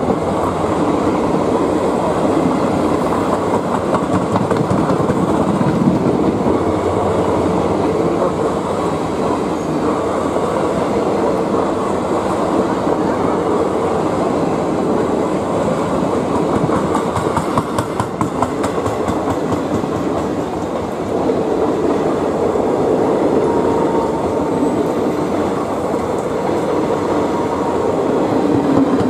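An Indian Railways express train's passenger coaches running past at speed: a loud, steady rush of wheels on the rails.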